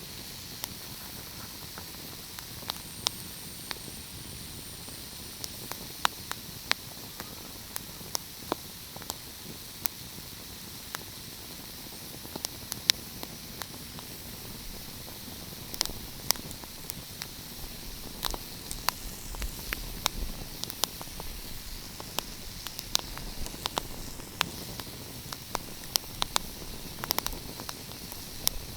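Wood fire crackling: a steady hiss with irregular sharp pops and snaps, several a second at times, and a low rumble swelling in the second half.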